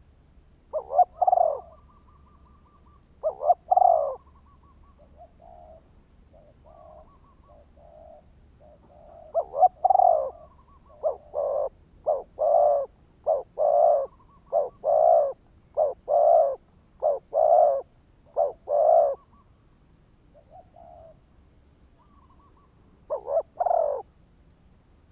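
Spotted dove cooing: two short coo phrases, then a run of about eight evenly spaced coos a little over a second apart, and one more phrase near the end.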